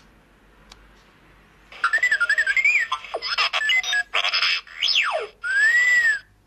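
Electronic sound effects from a novelty party sound machine. After a quiet start comes a warbling electronic tone, a run of short choppy blips, a fast falling zap, and a tone that rises then falls before cutting off.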